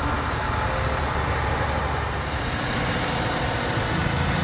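Loaded logging truck coming down a dirt road: a steady engine rumble mixed with road and tyre noise. Near the end the engine note turns steadier.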